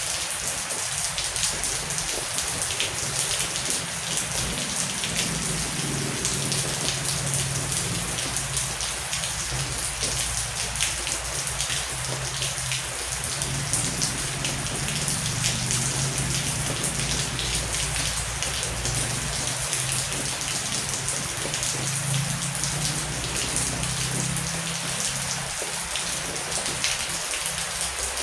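Heavy rain falling steadily, a dense hiss of many drops striking a surface. Underneath, a low rumble swells and fades a few times.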